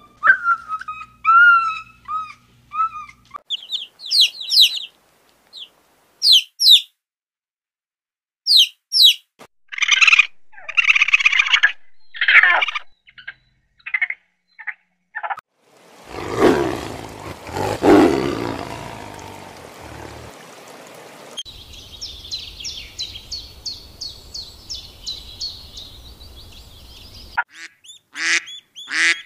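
A string of different animal and bird calls, one after another: short whistled calls and chirps, a few seconds of rough rustling noise, then a fast run of regular clicks. Near the end come quick honking calls of geese.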